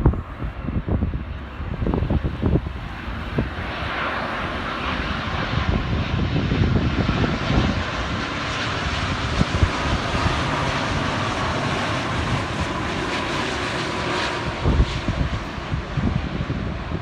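Boeing 787-9 Dreamliner's jet engines passing on landing approach: a steady rushing jet noise that builds about four seconds in, with a faint whine that falls slightly in pitch, then eases near the end. Wind buffets the microphone at the start and end.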